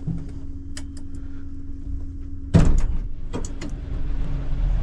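Engine and road rumble inside a moving vehicle with a steady hum, then a loud sudden thump about two and a half seconds in as the vehicle jolts, followed by a few short rattles and a heavier rumble.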